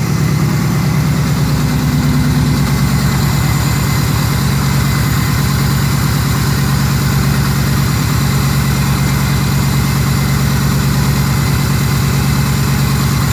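Chevrolet S10 2.4 four-cylinder engine in a Jeep Willys idling steadily. The owner thinks it is missing on one cylinder, likely from poorly fitted spark plug wires.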